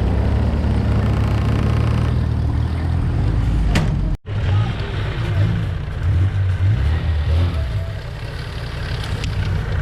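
Off-road 4x4 vehicle engine running under load, with the sound cutting out for an instant about four seconds in and the engine surging unevenly afterwards.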